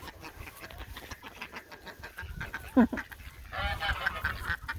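Domestic geese honking: a single loud call about three seconds in, then a burst of overlapping honks near the end.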